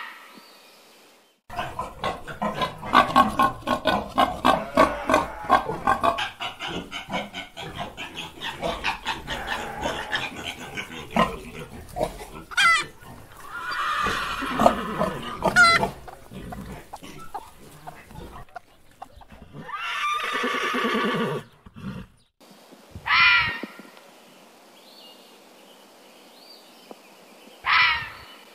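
A series of different animals' calls one after another. First comes a long stretch of rapid, repeated calls. Then there are shorter rising cries, a long drawn-out call that falls in pitch, and two short calls near the end, the last of them a cat's meow.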